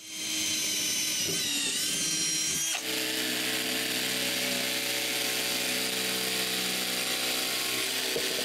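Electric power tool cutting out the hole in a wooden outhouse seat board. A wavering motor whine runs for about three seconds, then changes abruptly to a steadier, noisier run.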